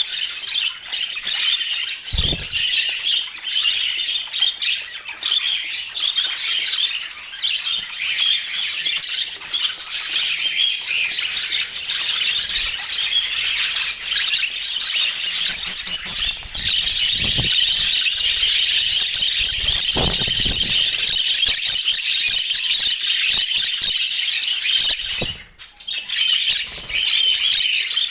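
A flock of budgerigars chattering, warbling and squawking without pause, with a few soft thumps and a brief lull near the end.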